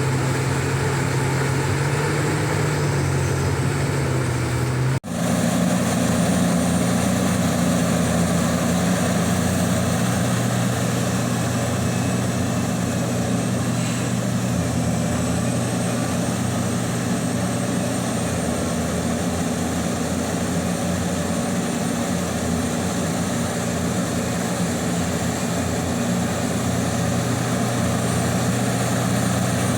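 Heavy diesel engine of a Liebherr 984 excavator running steadily with a low drone. There is a sudden brief break about five seconds in, and then the drone carries on.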